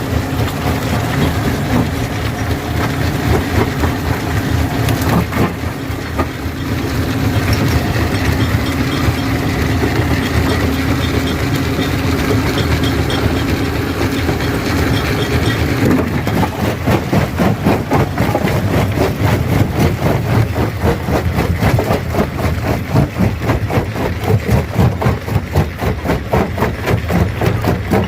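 Stone crusher running and crushing rock: a steady heavy machine drone, which changes about halfway through to a fast, even pounding of about three beats a second.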